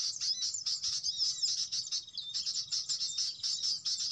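Small birds chirping and twittering rapidly, a dense stream of short, high, overlapping notes with quick up- and down-slurred calls.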